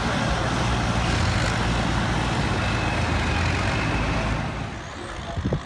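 1976 Ford 6600 tractor's three-cylinder diesel running hard under load in a sled pull, then dropping away about four and a half seconds in.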